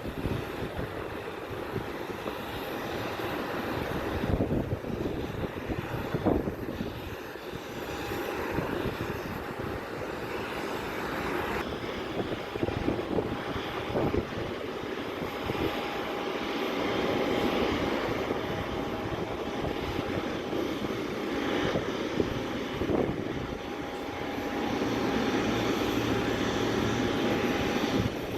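Large cargo jet's engines running, a continuous roar with a steady whine held throughout, growing somewhat louder near the end.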